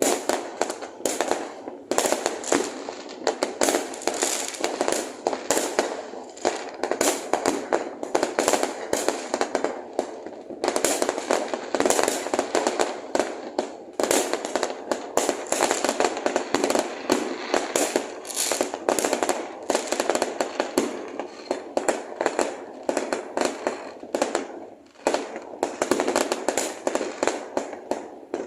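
Fireworks going off in a continuous barrage of rapid bangs and crackles, easing briefly a little before the end.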